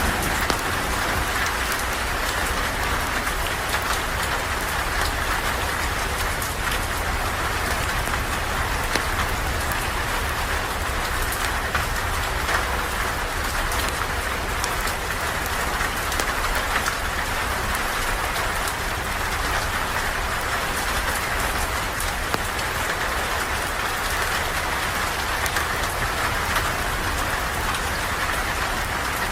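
Steady rain falling on a surface, an even hiss with scattered sharp little ticks.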